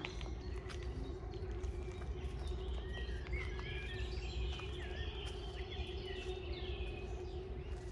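Songbirds chirping and calling in short, quick notes that slide up and down, over a steady low hum and rumble.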